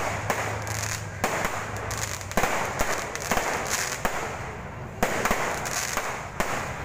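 Aerial fireworks bursting overhead: a run of irregular sharp bangs and crackling, with louder bangs about two and a half and five seconds in.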